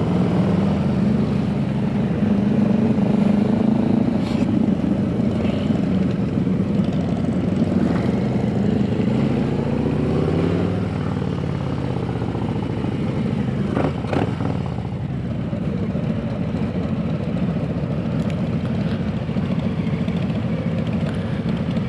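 Motorcycle engine running steadily at road speed while riding, its pitch shifting around the middle as the speed changes. There is a brief sharp knock about 14 seconds in.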